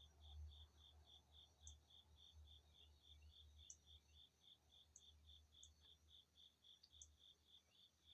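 A cricket chirping faintly and steadily, about four chirps a second, with a few brief, higher chirps now and then over a low background rumble.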